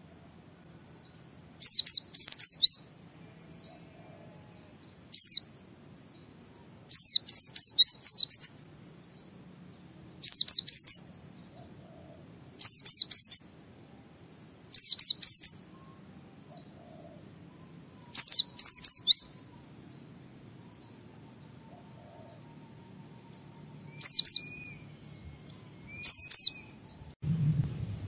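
White-eye (pleci) singing in short bursts of rapid, high, sweeping notes, one phrase every two to three seconds.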